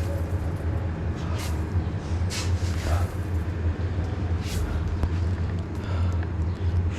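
Steady low rumble of a road vehicle's engine running, with short hissing sounds about once a second or two.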